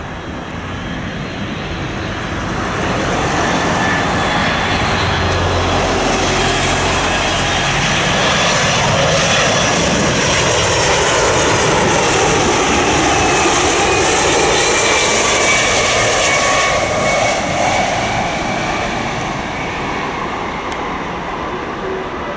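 Jet airliner on approach to land, flying past: the engine noise swells over several seconds, peaks, and then fades, its tones sliding down in pitch as it goes by.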